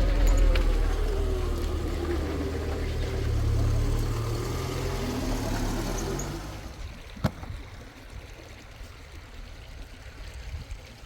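A vehicle engine running with a low hum that shifts in pitch, then fading away about six and a half seconds in. A single sharp click follows.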